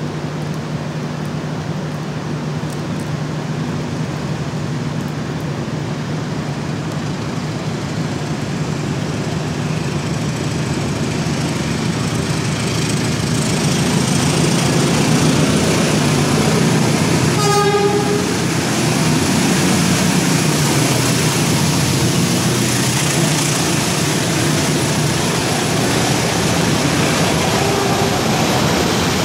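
Diesel-hauled passenger train approaching and rolling past through the station, its engine and wheel noise growing louder over the first half. About halfway through the locomotive horn gives one short toot, and then the coaches rumble steadily past.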